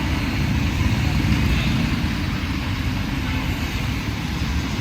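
Busy street traffic: a steady mix of vehicle engines and tyre noise.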